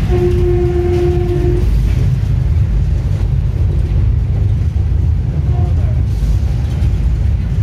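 Passenger train running along the line, heard from inside the carriage as a loud, steady low rumble. A short steady tone sounds over it for about the first second and a half.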